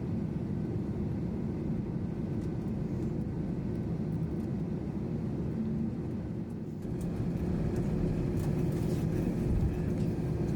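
Steady low rumble of an Airbus A321's cabin, heard from inside while the jet is on the ground after landing. The rumble grows a little louder about seven seconds in.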